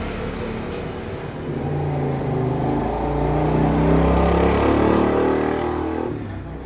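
A motor vehicle engine revving, its pitch climbing and growing louder, then cutting off suddenly about six seconds in.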